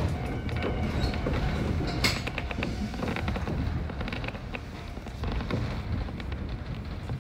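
Konan Railway 7000-series electric train running on snowy track, heard from inside the driver's cab: a steady low rumble of wheels on rail with scattered clicks and rattles, and one sharp knock about two seconds in.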